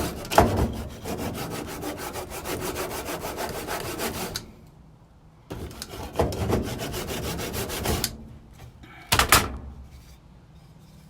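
A hand tool scraping a piece of wood in fast back-and-forth strokes, taking it down to fit. The strokes stop about four seconds in, start again for a couple of seconds, and a single sharp knock follows near the end.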